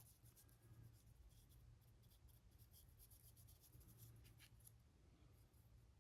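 Near silence: faint, light scratching of a paintbrush working black paint onto a 3D-printed figure, over a low steady hum.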